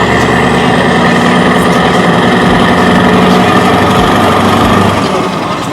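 Scania V8 truck engine running loud and steady through an open exhaust at constant revs, easing off slightly about five seconds in.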